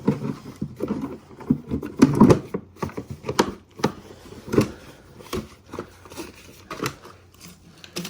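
Irregular knocks and clatters of a shop-vac filter being tapped to shake loose the fiberglass sanding dust packed into it.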